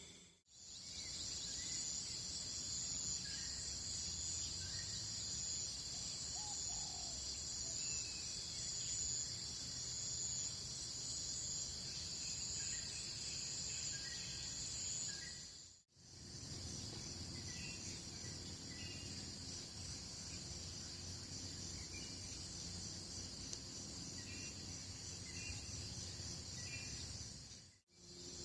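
Insects trilling steadily in a high, finely pulsing chorus, with a few short chirps over it. The sound cuts out briefly twice, about halfway through and near the end.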